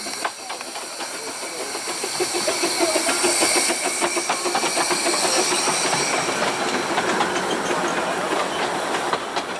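Narrow-gauge steam locomotive on the move, steam hissing over a rapid clatter of wheels on the rails. It grows louder about two seconds in.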